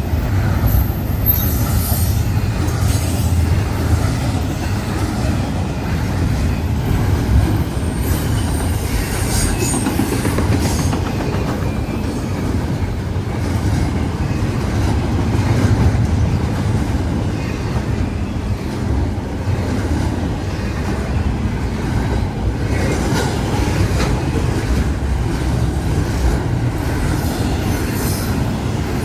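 Train rolling past at close range: a steady rumble of cars and wheels on the rails, with thin high wheel squeals now and then.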